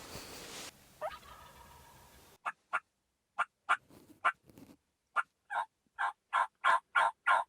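Turkey yelping: a series of short, evenly spaced yelps in runs, about three a second, getting louder toward the end.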